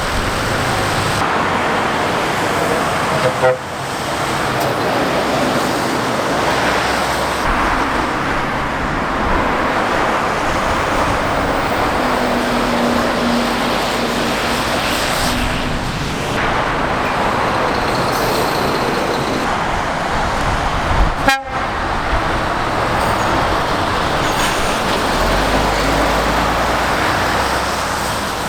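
Lorries and cars passing at speed on a busy main road: a steady roar of engines and tyres, broken abruptly twice.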